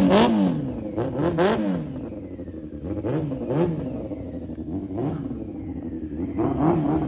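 Motorcycle engine running and being revved in repeated short blips, its pitch rising and falling roughly once or twice a second.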